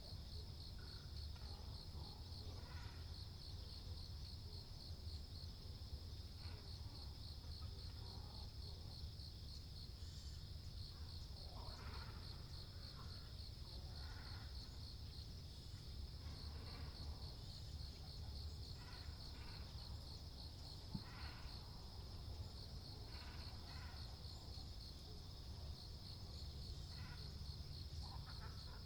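Great cormorants and herons calling now and then with short harsh calls over a steady, pulsing high-pitched insect trill.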